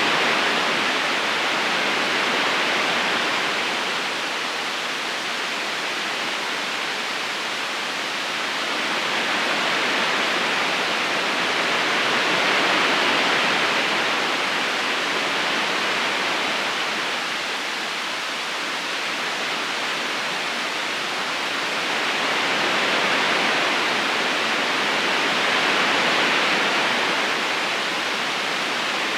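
River water flowing in a continuous steady rush that swells and eases slowly every several seconds.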